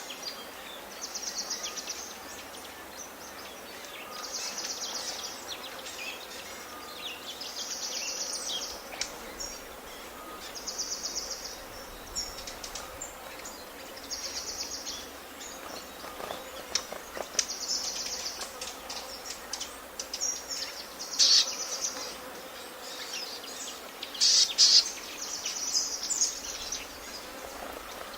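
Forest wildlife ambience: a high, rapid trill about a second long repeats roughly every three seconds, with scattered bird chirps, the loudest two a little after the middle and a few seconds later.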